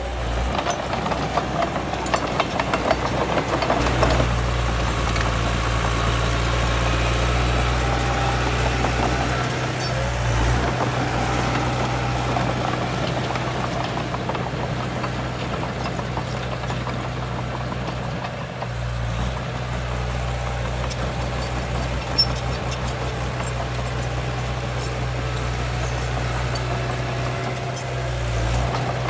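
Heavy diesel earthmoving machinery running steadily with a low hum, with a run of rattling clicks in the first few seconds and a single sharp knock about 22 seconds in.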